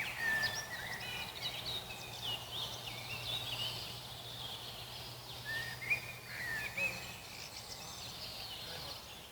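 Birds chirping and twittering, many short warbling calls overlapping, over a faint steady low hum that stops about seven seconds in.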